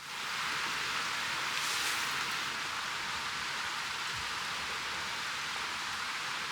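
Steady, even rushing hiss of a mountain stream's running water, with no distinct splashes or drops.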